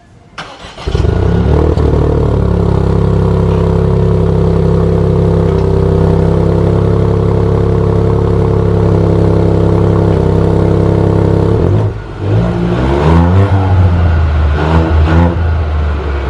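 Ford Fiesta ST's 1.5-litre turbocharged three-cylinder engine starting up, settling into a steady idle through its exhaust, then several quick revs near the end.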